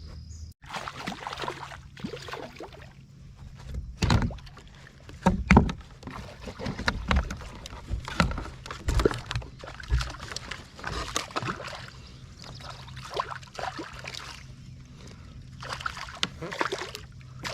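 Irregular knocks, rustles and bumps of gear being handled in a kayak, with light water sloshing against the hull; the loudest knocks come about four and five and a half seconds in.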